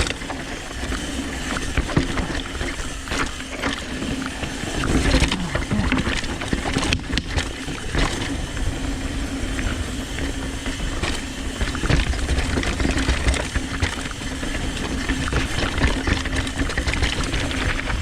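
Santa Cruz V10 downhill mountain bike ridden down a dirt trail: tyres rolling over dirt and rock, the bike rattling with many sharp knocks from bumps, and wind rushing over the microphone.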